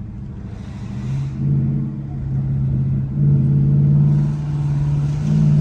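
Car engine running hard at held high revs, its note stepping up and getting louder about a second and a half in and again around three seconds in.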